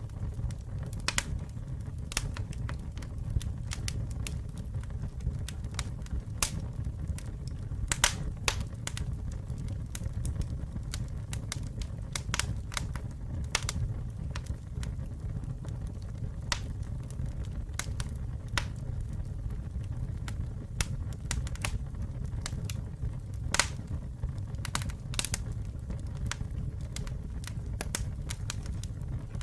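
Campfire burning: a steady low rumble of the flames with sharp, irregular crackles and pops from the burning wood, several a second.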